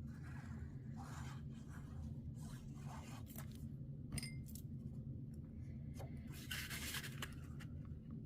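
Faint rustling and light taps of paper and cardstock being handled and positioned on a desk, with a longer rustle near the end, over a steady low hum.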